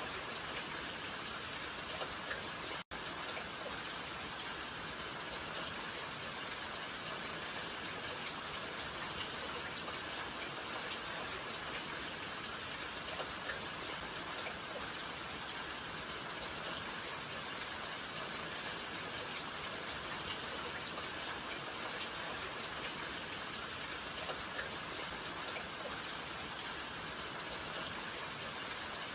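Steady rain falling, a continuous even hiss with scattered individual drop hits. The sound cuts out for a split second about three seconds in.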